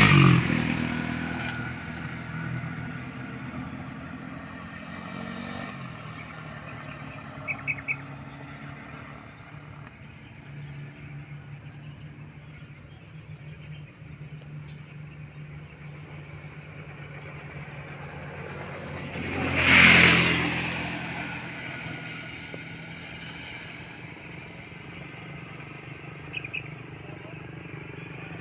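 Motor vehicles passing by: one fades away at the start, and another approaches and passes about twenty seconds in. Underneath runs a steady low hum and a high, pulsing drone.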